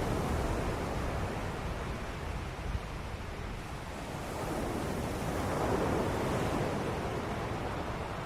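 Ocean waves breaking and washing on a shore: a steady rushing surf that swells twice, at the start and again about six seconds in, with a softer lull between.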